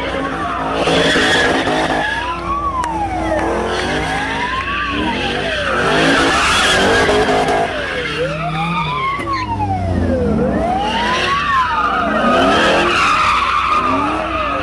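Police car siren wailing, rising and falling about every two to two and a half seconds, over a car engine revving and tyres screeching through drifts, with three louder surges of tyre noise.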